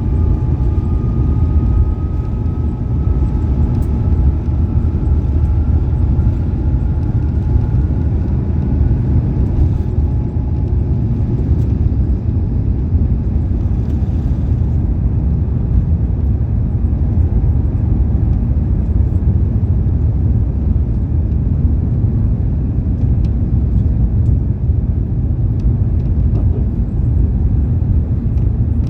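Cabin noise inside an Airbus A350-900 as its Rolls-Royce Trent XWB engines run hard during the departure: a loud, steady rumble. A faint whine slowly rises in pitch over the first ten seconds or so, then fades out.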